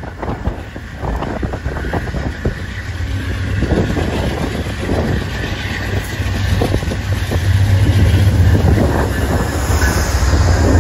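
Amtrak GE Genesis P42DC diesel locomotive pulling in along the platform and passing close by. Its engine rumble grows louder as it nears, with clicking from the wheels over the rails.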